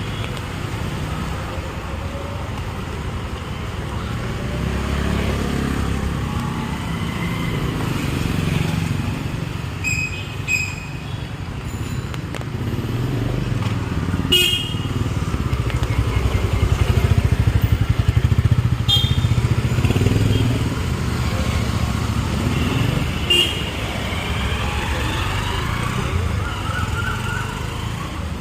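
Street traffic, mostly motorcycles and cars, running past with a steady engine rumble. Several short vehicle horn toots come through it.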